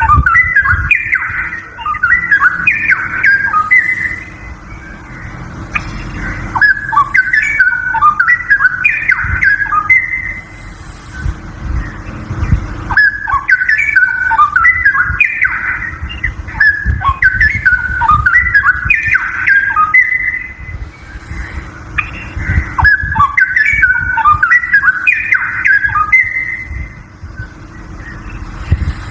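Straw-headed bulbul singing: loud, bubbling, whistled song phrases of quick rising and falling notes, each lasting a few seconds, repeated about four times with short pauses between them, over a steady low rumble.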